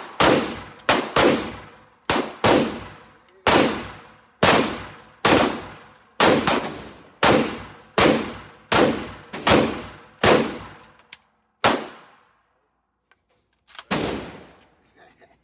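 About fifteen semi-automatic gunshots from an AK-pattern pistol chambered in 7.62, fired at roughly one a second, each with a ringing tail. A pause of about two seconds comes before a last shot near the end.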